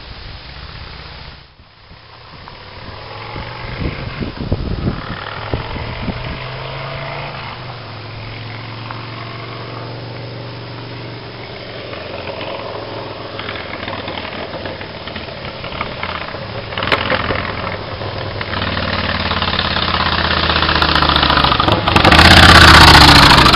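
Yamaha Road Star Warrior's 1700 cc V-twin engine running with its muffler removed, the sound coming open from a short length of pipe. The pitch rises and falls with the throttle, dips briefly about a second and a half in, and the sound grows louder over the last few seconds, loudest just before the end.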